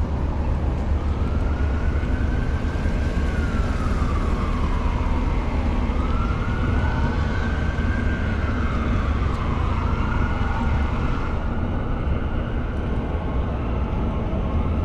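Emergency vehicle siren wailing, rising and falling slowly about every four to five seconds, over a steady low rumble.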